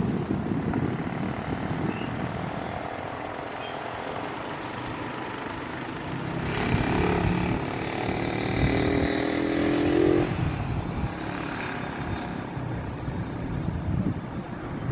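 Propeller airplane passing low on its landing approach: its engine and propeller drone swells from about six seconds in and fades away after about ten seconds, with wind buffeting the microphone.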